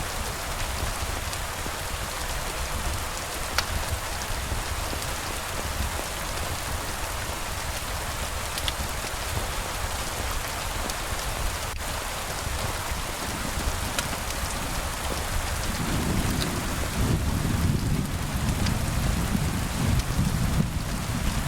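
Steady heavy rain hissing, with a few faint sharp ticks. About three-quarters of the way through, a low rumble of thunder rises and keeps rolling to the end.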